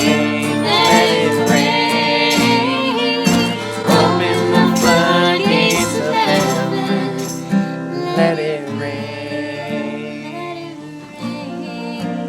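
Live praise band playing a worship song, voices singing over guitar and other instruments, growing quieter over the last few seconds.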